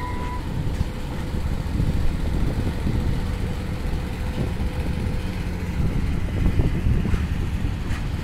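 A two-car passenger railcar rolling past onto a steel girder bridge, giving a steady low rumble of engine and wheels that grows a little louder after a couple of seconds. A steady horn note held from before cuts off within the first half second.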